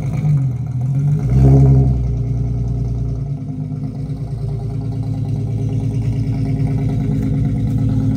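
Nissan 350Z's V6 engine running at low revs as the car reverses down off a trailer, with a brief blip of throttle about a second in.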